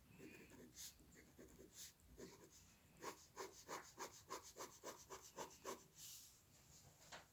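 Faint scratching of a drawing tool on paper: scattered single strokes, then a run of about ten quick, even strokes, three or four a second, from about three seconds in, ending in a longer scratch.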